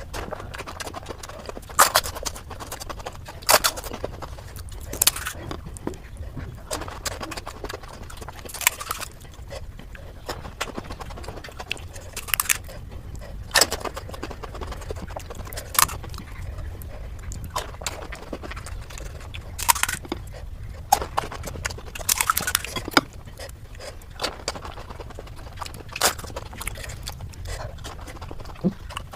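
Crisp crunches of golgappa (pani puri), hollow fried puri shells filled with spiced water, being bitten and chewed. A sharp crunch comes every one to two seconds over a steady low hum.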